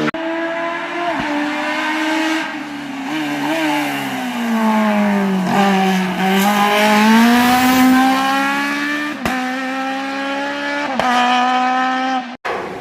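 Race car engine working hard through a slalom course. The engine note sinks, climbs again and is broken several times by quick gear changes.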